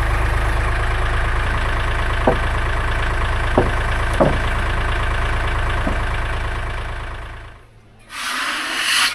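Sawmill engine running steadily, with a few sharp knocks in the middle, dying away about seven and a half seconds in. Near the end comes a short rasping rub on wood.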